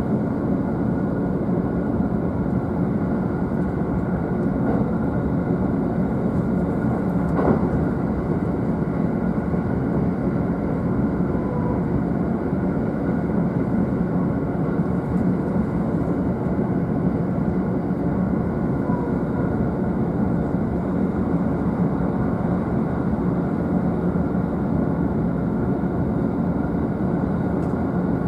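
JR East E531 series electric train running at speed, heard inside the upper deck of a double-deck Green car: a steady rumble of wheels on rail, with one sharp knock about seven and a half seconds in.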